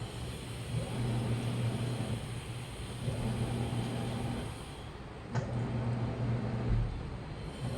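Washing machine motor running in stretches of about one and a half to two seconds with short pauses between them, as the drum turns during the wash. A sharp click comes a little after five seconds and a low thump near seven seconds.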